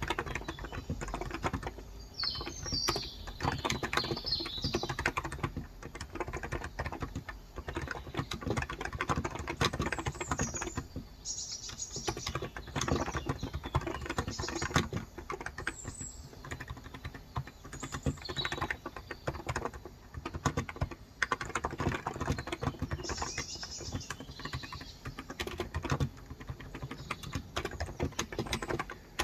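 Steady, fast typing on a Cox Endeavor electro-capacitive (35 g) tenkeyless keyboard: a dense run of soft keystrokes with brief pauses. Birds chirp now and then in the background.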